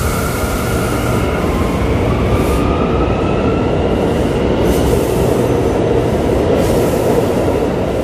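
An R179 subway train pulling out of the station and picking up speed, with a heavy steady rumble and a thin whine that rises slowly in pitch. A few short clacks sound through the middle as the wheels roll over the rail joints.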